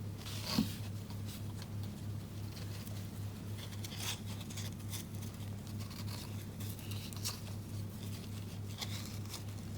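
Soft, scattered rustles and light taps of satin ribbon and cardstock being handled and wrapped around a paper tag, over a steady low electrical hum.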